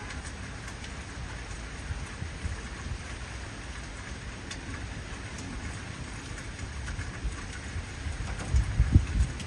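Heavy rain falling steadily, with scattered drops tapping, and a low rumble of thunder swelling near the end.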